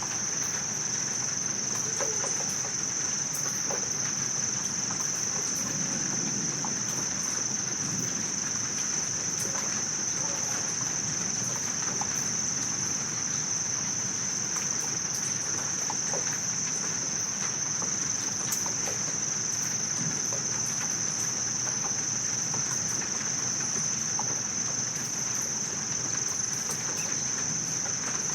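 Insects, crickets or the like, keeping up a steady high-pitched drone, over a faint even hiss with scattered light ticks.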